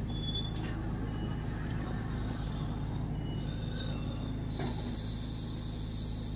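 Steady low hum of a car idling, heard from inside the cabin. A faint click comes about four and a half seconds in, after which a steady high hiss joins the hum.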